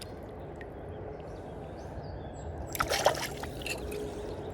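River water running steadily, with a brief louder splash about three seconds in.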